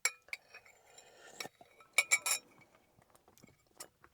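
Eating utensils clinking against a dish: a couple of ringing clinks at the start, then a louder quick run of three or four clinks about two seconds in, and a few faint taps after.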